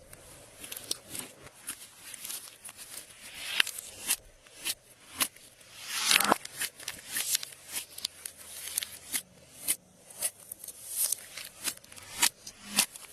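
Glossy slime being squished and stretched by hand: a run of irregular sticky clicks and crackles, with a few louder squelches, the loudest about six seconds in.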